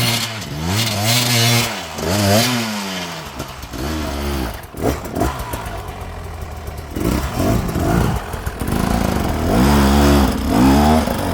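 Enduro dirt bike engine revving in repeated bursts of throttle, its pitch rising and falling again and again.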